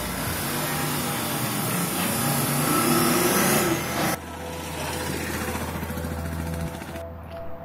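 Auto-rickshaw engine running as it drives along the road. The sound drops abruptly about four seconds in and continues as a quieter, steady engine hum.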